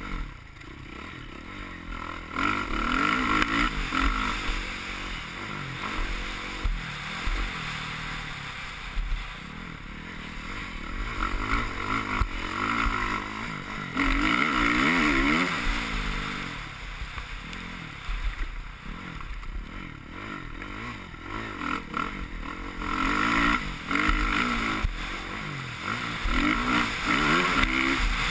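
Suzuki RM-Z450's single-cylinder four-stroke engine revving hard and backing off again and again while ridden around a motocross track, its pitch rising and falling with each burst of throttle.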